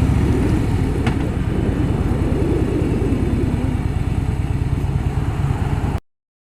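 Harley-Davidson Softail Fat Boy's air-cooled V-twin running at low revs with a steady, dense low pulsing, and a single click about a second in. The sound cuts off abruptly to silence near the end.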